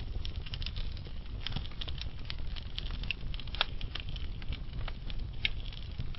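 Wood fire burning, with irregular sharp crackles and pops over a steady low rumble of the flames; a few louder pops stand out, one about three and a half seconds in.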